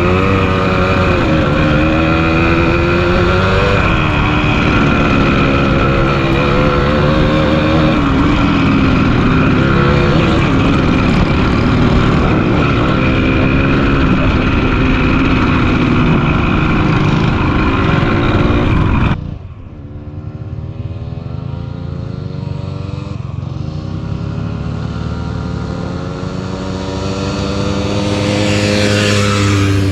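1974 Yamaha DT100's single-cylinder two-stroke engine running on the move, its revs rising and falling. About two-thirds of the way through, the sound suddenly drops to a quieter, duller engine note that climbs slowly in pitch.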